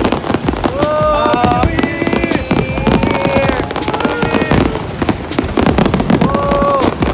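Fireworks display going off: a dense, continuous run of crackling bangs. Several high, wavering tones rise and fall over it a second in and again near the end.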